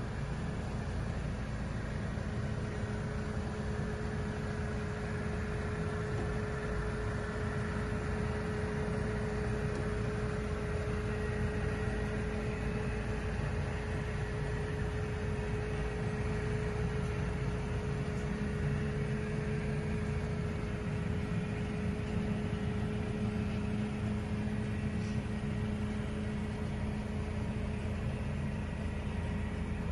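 Mercedes-Benz CLC200 Kompressor's supercharged four-cylinder engine idling steadily: a low, even rumble with a steady hum above it.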